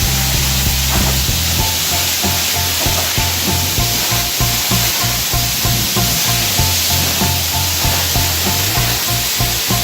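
Self-serve car wash pressure-washer wand spraying water in a steady hiss. Background music with a steady beat and a repeating short melody comes in about a second and a half in.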